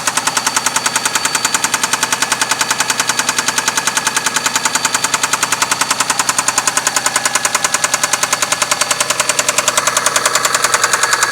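Mitsubishi 6A13 V6 idling with a loud, nasty knock repeating rapidly and evenly, several times a second. The knock is loudest between the cylinder heads, and the owner cannot find its cause.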